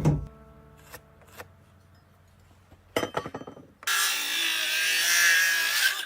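Scattered knocks and scrapes of wood being handled, then about a second before the end a power tool runs for about two seconds, cutting into wood with a wavering pitch.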